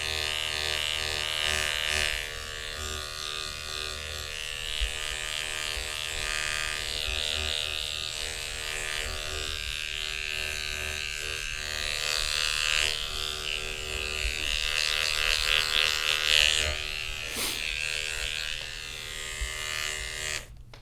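Electric hair clippers buzzing steadily through a haircut, cutting off abruptly just before the end.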